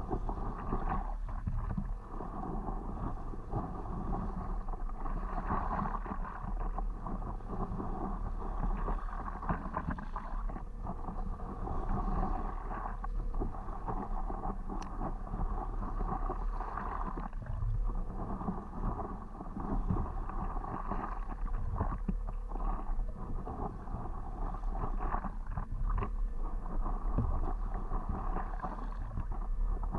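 Stand-up paddleboard paddle strokes swishing through the water, with wind buffeting the microphone as a steady low rumble underneath.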